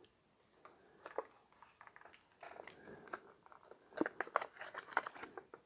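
Close handling noise: an irregular run of small clicks and crackles, busiest about four to five seconds in.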